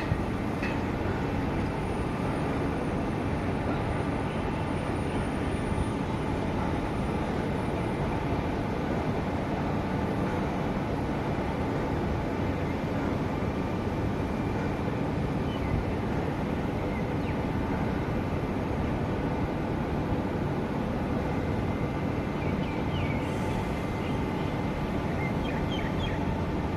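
SMRT C151 metro train running: a steady rumble that holds level throughout, with faint steady tones above it.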